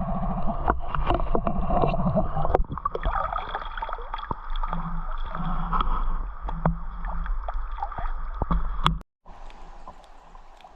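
Muffled water sloshing and gurgling with scattered clicks and knocks. It cuts off abruptly near the end, and a quieter water hiss follows.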